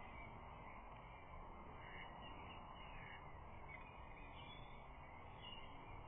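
Faint outdoor ambience from a nest camera's microphone: a steady hiss with faint, distant bird calls.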